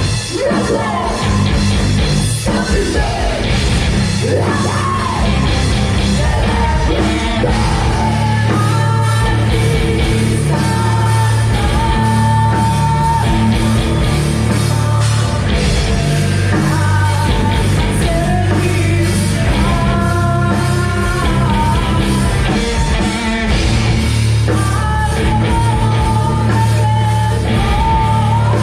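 A rock band playing live and loud: distorted guitars, bass and drum kit, with vocals, some of them yelled.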